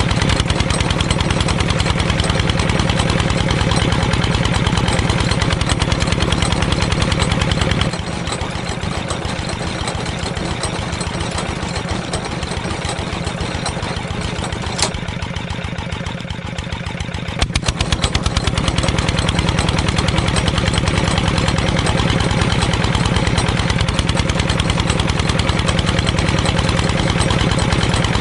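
Small engine running steadily with an even, rapid thump like a single-cylinder diesel. It turns quieter about 8 seconds in, with one sharp click near the middle of that quieter stretch, and comes back up to full level at about 17 seconds.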